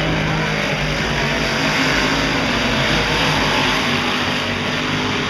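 Big-block dirt modified race cars running together on the track, a steady loud mix of several V8 engines whose pitches waver slightly.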